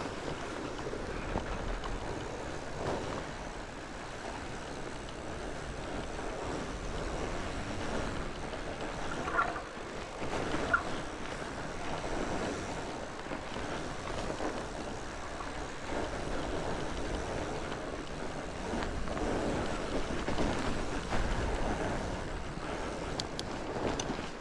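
Fat bike rolling along a dirt trail: a steady rush of tyre noise and wind on the microphone, with a few short knocks and rattles from the bike over bumps about ten seconds in.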